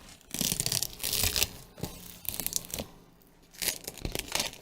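Thin protective plastic film being peeled off a tablet's replacement glass screen, crackling and tearing away from the adhesive in two stretches with a short pause between.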